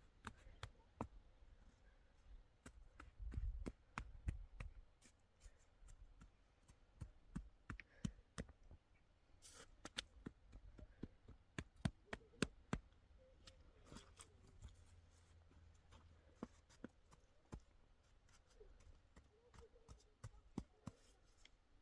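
Faint, irregular clicks and taps, a few to several a second, over a low rumble.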